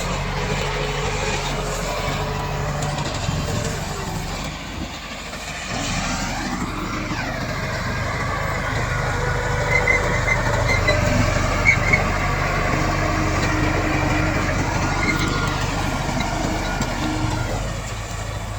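Komatsu D68 bulldozer running while it works, its diesel engine droning steadily. About six seconds in, the engine pitch sweeps up and back down, and a few short high squeaks come a little later.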